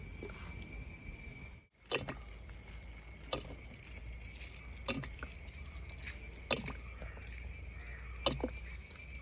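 A handful of light, spaced clicks and taps over a faint steady hum and a thin high whine.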